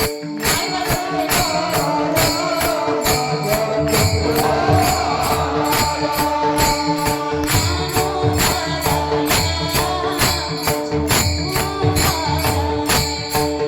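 Kirtan devotional music: a steady rhythm of jingling metallic percussion over sustained held tones, with a deeper drum joining about four seconds in.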